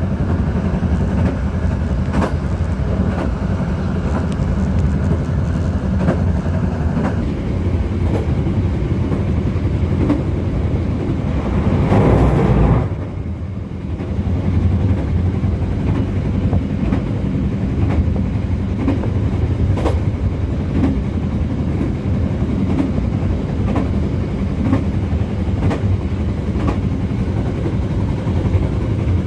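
Passenger train carriage running on the track: a steady low rumble with scattered wheel clicks over rail joints. About twelve seconds in, a louder rushing swell cuts off suddenly, then the rumble returns.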